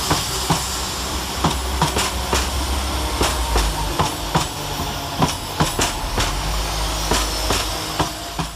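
Two coupled Class 172 Turbostar diesel multiple units pulling away, diesel engines running with a steady low drone while the wheels click over rail joints and pointwork at about two clicks a second. The sound cuts off suddenly near the end.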